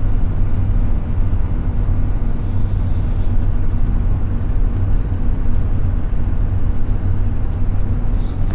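2014 Ford F350's 6.7 turbo-diesel pickup driving, a steady low engine and road rumble.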